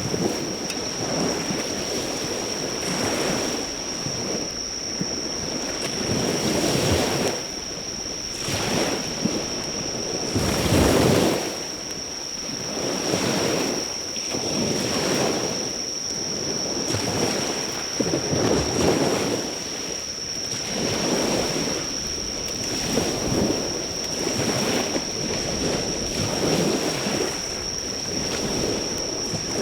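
Sea waves washing on the shore, swelling and falling every couple of seconds, with a steady high-pitched insect drone throughout.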